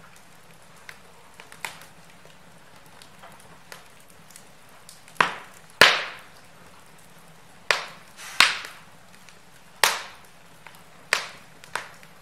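Wood fire in a fireplace burning with a low hiss and scattered sharp crackles and pops. The pops come close together in the second half, about one every second.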